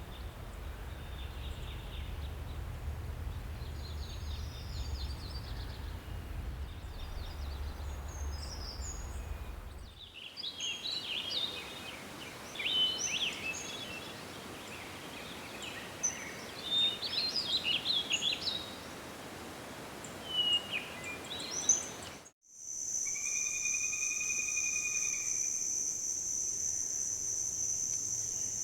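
Forest birds chirping and singing, over a low rumble for the first ten seconds or so and clearer and louder after that. About three quarters of the way through the sound cuts abruptly to a steady, high-pitched insect trill of crickets or cicadas.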